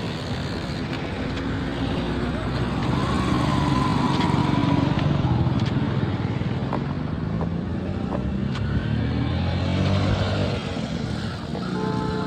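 Motor vehicle engines passing on a road, swelling to their loudest about four to five seconds in and then easing off.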